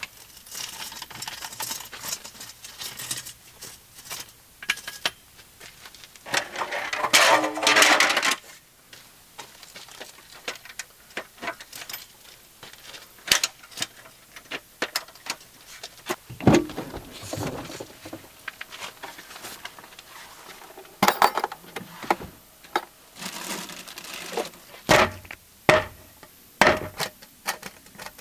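Camping gear being handled: scattered knocks, clinks and clatter, with a longer, louder rushing noise about seven seconds in.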